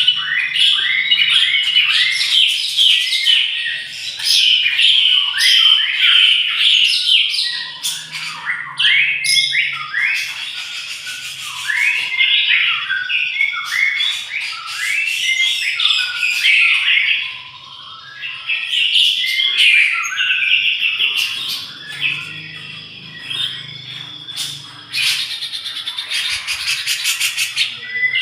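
A songbird singing a long, rapid, varied song of chirps, trills and sharp clicks, briefly quieter about two-thirds of the way through.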